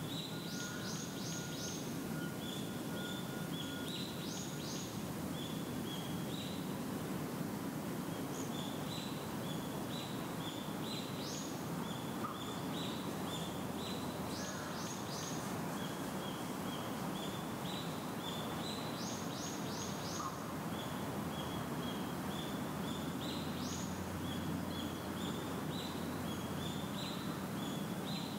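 A bird singing a phrase of short, high notes over and over, each phrase rising into a quick run of higher notes, repeated every few seconds. Under it, a steady low outdoor rush.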